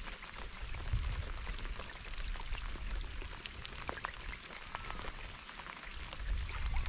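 Steady rain falling on open water, a dense patter of many small drops.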